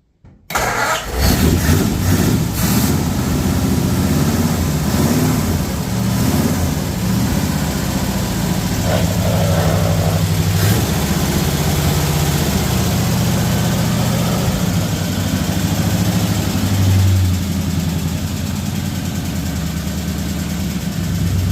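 A 1940 Ford coupe's flathead V8 starting from cold: it catches suddenly about half a second in, runs unevenly for the first couple of seconds, then settles into a steady idle. Late on there is a brief rise in revs before it drops back to idle.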